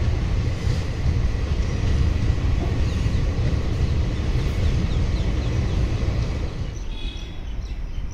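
Passenger train coaches rolling past on the rails, a steady low rumble of wheels on track that fades away about six and a half seconds in as the end of the train passes.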